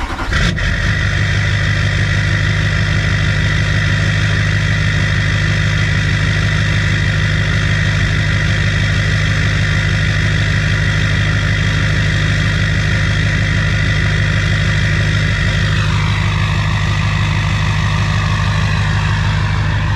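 Duramax diesel engine just after a cold start, idling steadily and loudly. About sixteen seconds in, a high whine over the idle drops in pitch and fades.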